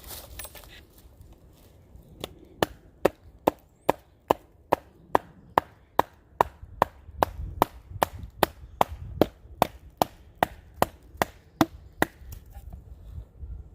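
A pocket knife being driven through a log to split it, struck repeatedly on the blade's spine: a steady run of sharp wooden knocks, a little over two a second, starting about two seconds in and thinning out near the end.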